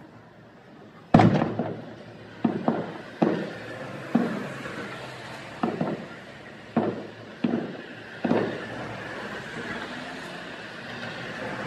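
Aerial fireworks shells bursting: a run of about nine booms, irregularly spaced, the loudest about a second in, each trailing off in a fading echo.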